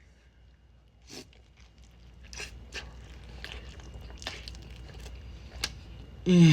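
Close-miked chewing of a mouthful of Chipotle burrito: scattered wet clicks and crunches, growing busier after about a second. A short voice sound with falling pitch comes near the end.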